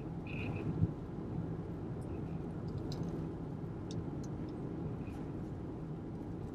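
Volkswagen Golf R's turbocharged four-cylinder engine and road noise heard inside the cabin while driving: a steady low rumble, with a few faint light ticks.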